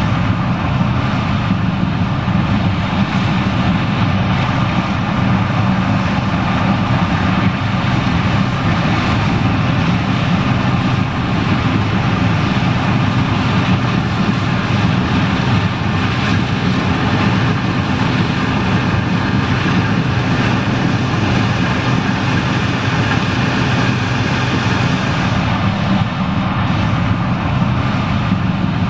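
John Deere 9870STS combine running steadily while harvesting corn: an even, unbroken engine drone with a fainter steady higher whine from the machine.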